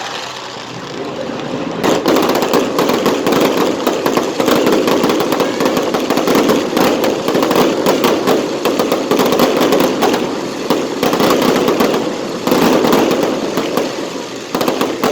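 Fireworks going off in a rapid, continuous barrage of bangs and crackles that starts suddenly about two seconds in and eases briefly a couple of times near the end.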